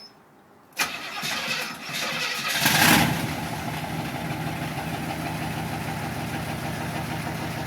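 1972 Chevrolet Chevelle engine on a cold start: the starter cranks for about two seconds, the engine catches with a brief rev about three seconds in, then settles into a steady idle.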